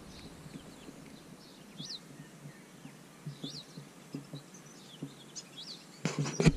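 Small birds chirping: a handful of short, high chirps scattered over a quiet outdoor background, with a brief loud burst of noise near the end.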